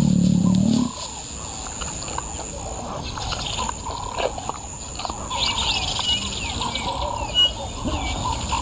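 Birds chirping and warbling in the bush, many short calls, over a thin steady high-pitched tone. A louder low pitched sound stops abruptly about a second in.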